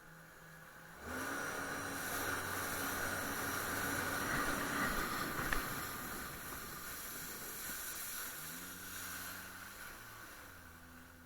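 Jet ski engine pulling away from idle about a second in and running at speed under a rushing hiss, then easing back to a lower steady note near the end.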